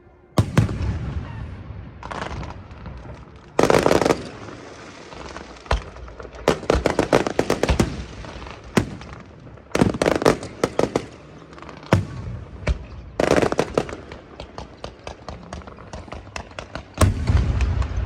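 Aerial fireworks bursting overhead in quick succession: sharp bangs, each followed by crackling, building to a dense barrage near the end.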